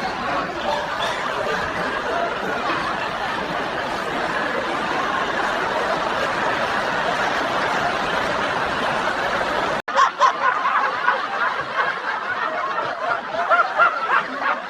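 A crowd laughing steadily, many voices overlapping. There is a sudden cut about ten seconds in, then laughter in louder, choppier bursts.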